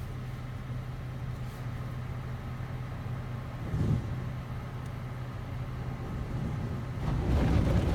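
Automatic car wash machinery heard from inside the car's cabin: a steady low hum, a short louder knock about four seconds in, and a louder rushing noise that builds near the end as the wash equipment works over the car.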